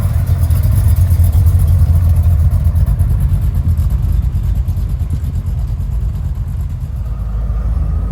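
Muscle car engine running with a low, pulsing rumble, loudest in the first couple of seconds and then easing slightly as it moves off.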